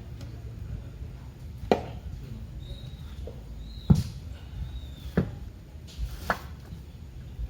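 Four sharp metallic knocks and clinks a second or so apart, the second the loudest: tools and parts being handled while a small engine is taken apart.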